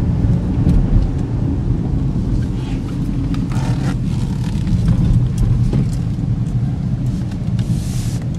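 Road noise inside the cabin of a moving 2013 Chevy Equinox: a steady low rumble of tyres and the 3.6-litre V6, with scattered light clicks and a brief hiss near the end.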